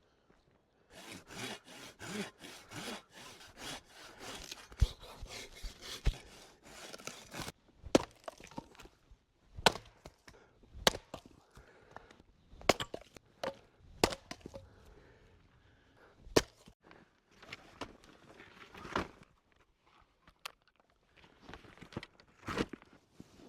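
Wood being sawn in quick rasping strokes for the first several seconds, then a series of sharp single cracks of wood breaking, one every second or two.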